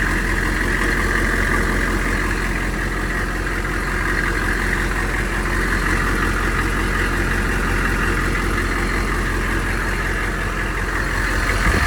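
Humvee's 6.5-litre V8 diesel engine idling steadily, with an even, fast low pulsing.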